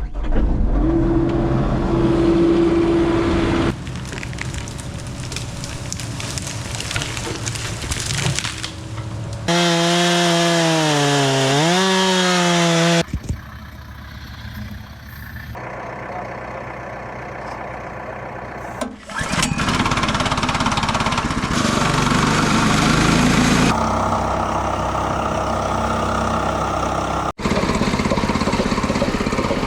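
Short clips of the Mechmaxx SM-22 sawmill's gas engine running and its blade cutting wood, changing abruptly every few seconds. At one point the engine's pitch dips and rises again for a few seconds.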